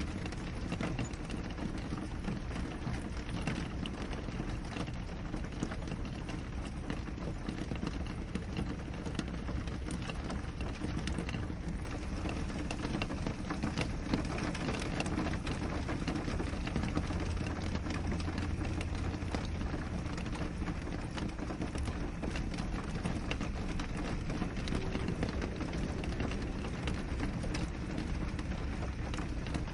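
Steady rain on a window pane: a constant hiss dotted with many small drop taps, over a low rumble.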